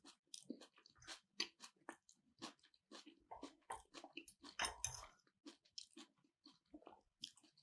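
A person chewing food close to the microphone: faint, irregular wet clicks and crunches, a little louder about five seconds in.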